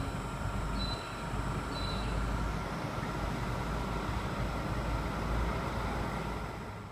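Steady low rumble with a broad hiss from a passing vehicle, easing off slightly near the end.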